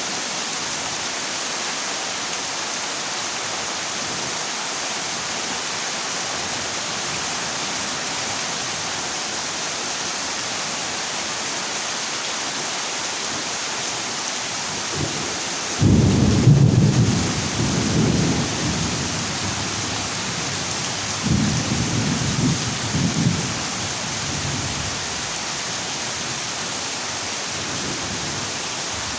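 Heavy rain falling steadily on a corrugated zinc roof. About halfway through, a sudden thunderclap rumbles for a few seconds, and a second, shorter rumble of thunder follows.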